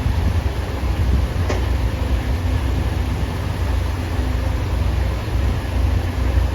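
Excavator's diesel engine running with a steady low rumble. A single short knock sounds about a second and a half in.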